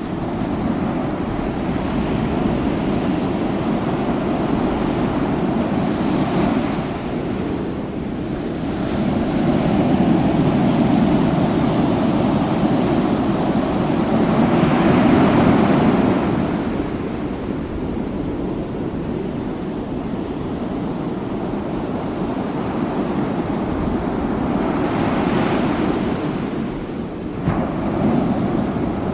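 Ocean surf: waves breaking and washing ashore, the rushing swelling and easing in slow surges several seconds apart.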